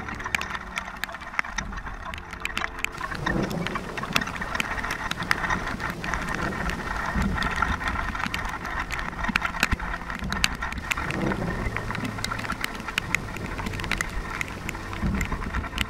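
Rain pattering, with many sharp drop clicks, over dark, slow background music of sustained tones.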